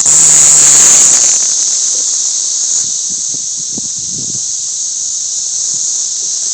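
Periodical cicada chorus, a steady high drone, with a much louder buzzing squawk from a single cicada close by during the first second or so.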